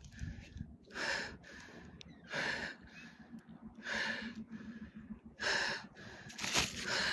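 A man breathing hard close to the microphone: five short, sharp breaths, roughly one every second and a half.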